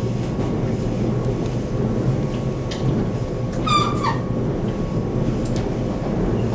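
Cabin running noise of a Taiwan Railway EMU700 electric commuter train: a steady rumble of wheels on rail and the car's running gear, with a brief high-pitched squeal a little over halfway in.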